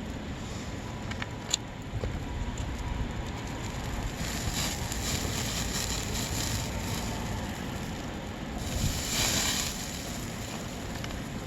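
Wind rumbling on the microphone outdoors, with one sharp click about a second and a half in and a louder hissing surge near the end.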